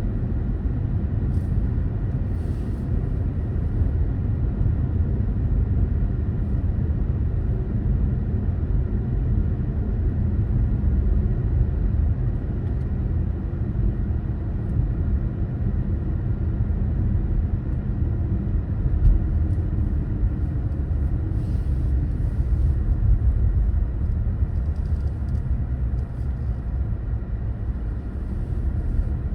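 A car driving, its engine and tyres making a steady low road rumble.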